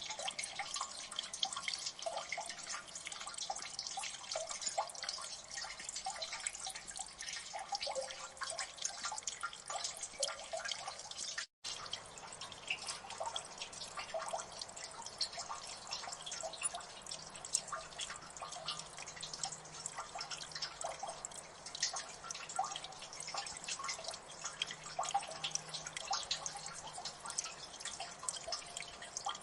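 Water dripping in a gully: many quick drops falling at an irregular, dense rate, some landing close together. The sound cuts out for a split second about eleven and a half seconds in.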